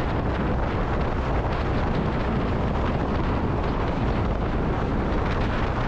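Steady wind rush over an onboard microphone at expressway speed, mixed with the Kawasaki W800 Cafe's air-cooled parallel-twin engine running at a constant cruise.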